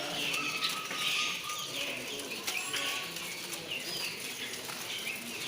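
Many caged birds chirping and calling over one another in a dense, steady chorus, with a few sharp clicks among the cages.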